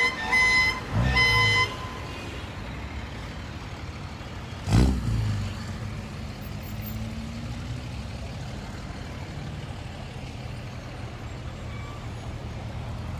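Vehicle horns honking in three short blasts in the first two seconds, over the sound of passing cars and trucks. A brief loud burst about five seconds in, then steady traffic noise.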